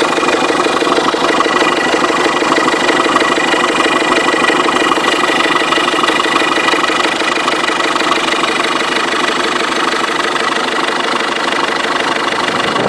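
Ford Fiesta 1.6 TDCi four-cylinder diesel engine idling steadily, with a fast, even knock running through the idle.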